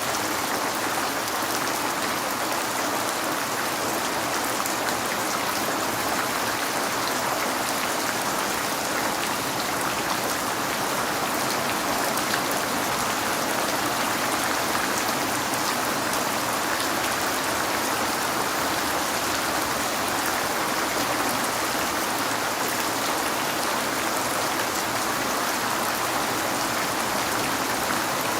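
Steady rain falling and pattering on a surface, an even unbroken hiss of drops.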